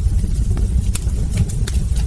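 Wood fire burning in a hearth: a steady deep rumble of the flames with a handful of sharp crackles and pops from the burning logs.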